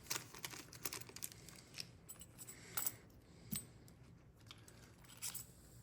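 Faint, scattered small clicks and light rustling of tiny lock parts (springs and numbered wafers) and their packets being handled and sorted.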